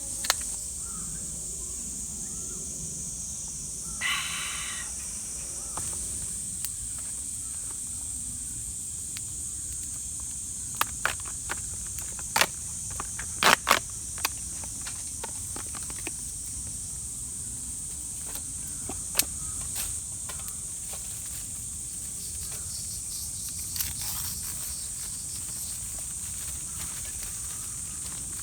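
A steady, high-pitched chorus of insects in the forest, with scattered sharp clicks and knocks, a quick cluster of them about halfway through, and a brief call about four seconds in.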